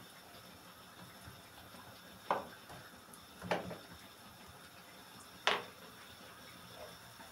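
Three sharp clinks of a cooking utensil against a pan, each ringing briefly, over a faint steady sizzle of dough frying in oil; the last clink is the loudest.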